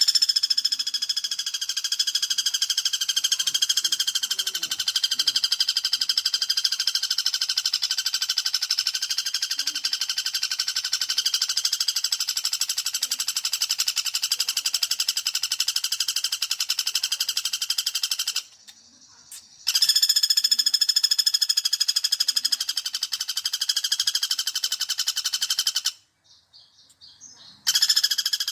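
Pelatuk bawang woodpecker call played as a bird-lure recording: a long, very rapid, high-pitched rattling trill that breaks off briefly twice near the end.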